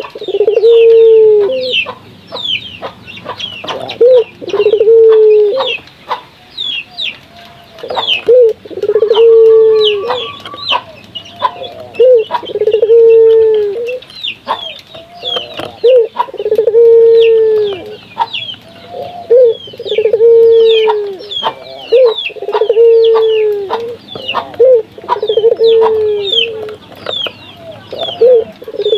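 Barbary doves (burung puter) cooing over and over, a deep rolling coo about a second long coming roughly every two seconds. Many short high chirps from small birds run underneath.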